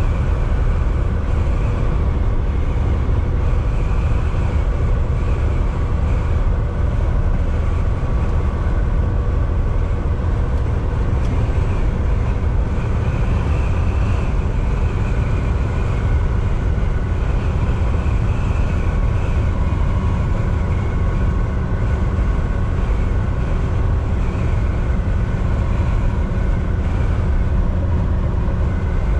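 Volvo VNL 760 semi truck driving, heard from inside the cab: steady engine drone over a constant low road and tyre rumble.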